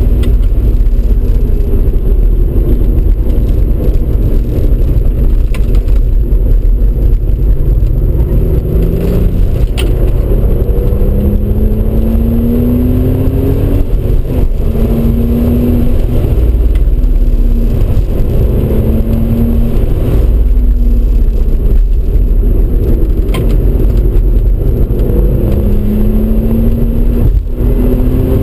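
Audi RS4 B5's 2.7-litre twin-turbo V6 accelerating, heard from inside the cabin: the engine note rises several times and falls back between the rises, over constant heavy road and wind rumble.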